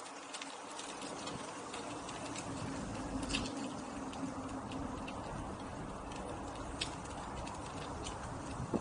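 An InMotion V10 electric unicycle being ridden: steady tyre and riding noise with a faint steady hum, broken by scattered light ticks and clicks from the wheel over the rough path.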